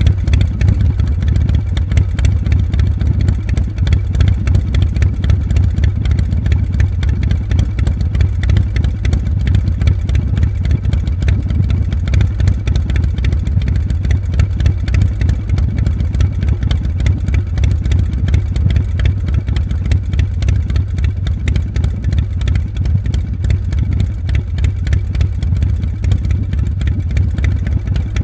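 Motorcycle engine running steadily without revving: a deep, fast, even pulsing that holds at one pace throughout.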